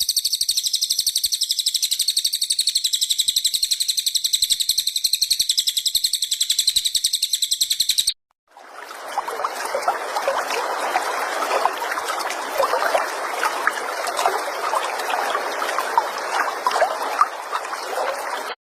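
Looped songbird recording: a fast, high-pitched trill of rapidly repeated notes for about eight seconds. It breaks off suddenly and gives way to a dense, lower, scratchy chatter.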